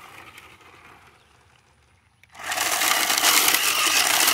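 Remote-control car's electric motor running hard with its wheels spinning on gravel. It starts suddenly a little over two seconds in; before that there is only faint background.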